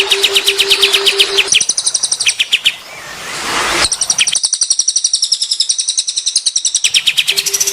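Songbird song: fast runs of short, high chirps and rapid trills, one phrase following another. A steady low hum sounds under it at the start and again near the end.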